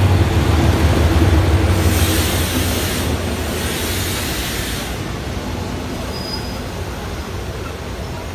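Diesel-electric locomotive (SRT GEK class no. 4016) and its passenger coaches passing close at slow speed as the train pulls into the station. The locomotive's low engine drone fades over the first two seconds, a louder hiss comes between about two and five seconds in, and then the coaches rumble by on the rails, slowly growing quieter.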